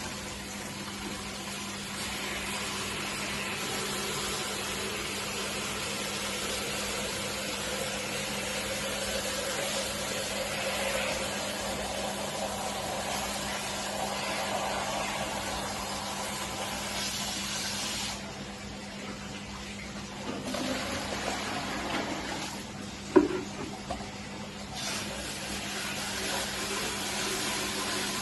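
Steady rush of running water that stops about eighteen seconds in, with a low hum under it throughout, then a single sharp knock a few seconds later.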